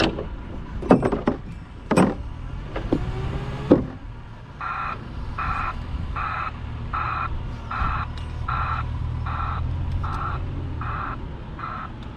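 A few sharp clanks, then a truck's reversing alarm sounding about ten short beeps, roughly one and a half a second, over the steady low rumble of the diesel engine.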